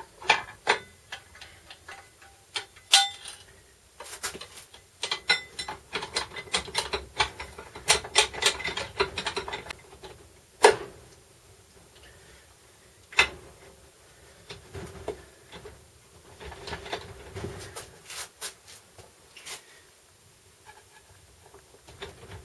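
Irregular clicking, knocking and clattering of hand work on transfer case parts and tools, with a few sharper knocks standing out.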